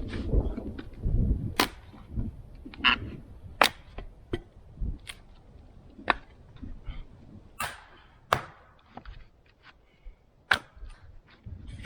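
Firewood being split with an axe into small stove-sized pieces: a series of sharp cracks and knocks of the blade into the wood, about one a second, thinning out toward the end.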